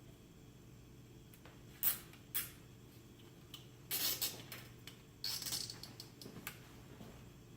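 Several short scraping and clicking handling noises, scattered irregularly over a faint steady low hum.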